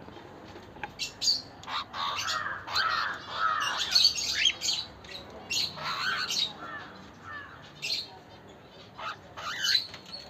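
Cockatiels chirping and squawking: many short, arching calls repeated in loose bunches.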